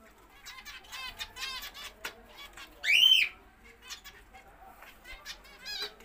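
Caged birds chirping and chattering lightly, with one loud, arched screech lasting about half a second around the middle.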